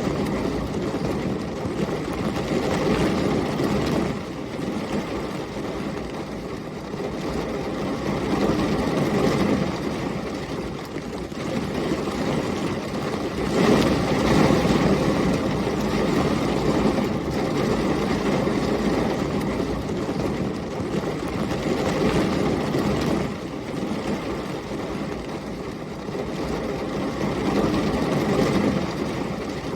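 Heavy rain with storm wind: a dense, low roar that swells and eases every few seconds, with its strongest surge about halfway through.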